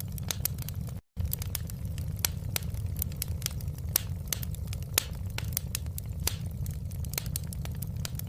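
Wood fire crackling: frequent irregular sharp pops and snaps over a steady low rumble of burning. The sound cuts out completely for an instant about a second in.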